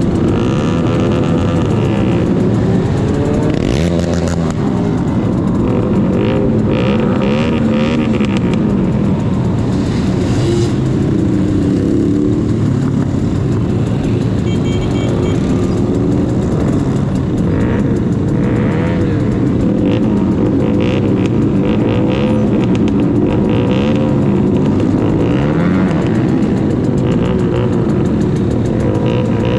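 Several motorcycle engines running at once, their pitches rising and falling as the bikes rev and change speed.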